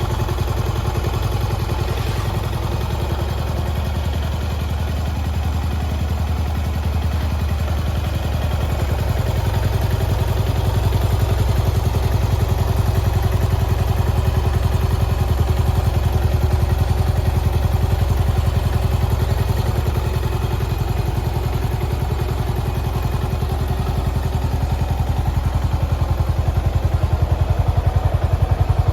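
2021 Yamaha SR400's air-cooled 399 cc single-cylinder engine idling with an even, rapid beat, getting a little louder about ten seconds in and again near the end.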